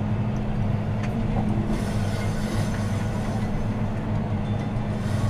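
John Deere 6215R tractor's six-cylinder diesel engine running steadily under load while ploughing, heard inside the cab as an even low drone.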